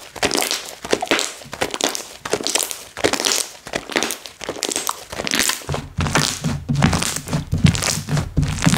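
Slime being squeezed, pressed and poked by hand, giving irregular bursts of crackling, crinkly pops and soft thunks, several a second. A low hum joins about six seconds in.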